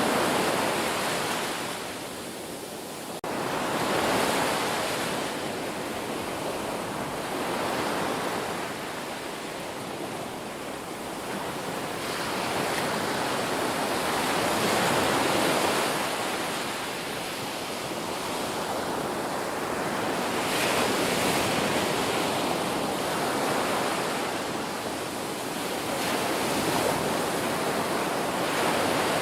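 Ocean surf: waves breaking and washing ashore in a continuous rush that swells and fades every few seconds. About three seconds in there is a sudden step up in loudness.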